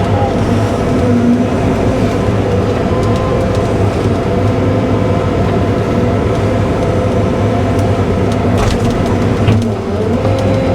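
Cat 313 excavator's diesel engine running steadily, its pitch wavering slightly as the hydraulics take load. Two sharp knocks come near the end, where the engine dips briefly and picks up again.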